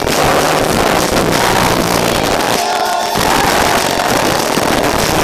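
Loud live gig sound close to the stage: the band's amplified music and the crowd run together into a dense, distorted wash of noise.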